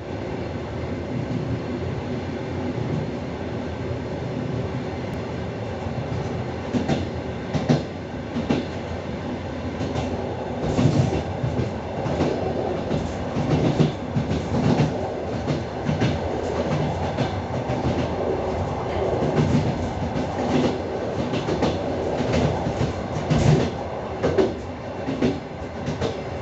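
Train wheels running on the rails with a steady rumble. From several seconds in, irregular sharp clacks come through as the wheels cross rail joints and the points of a rail yard.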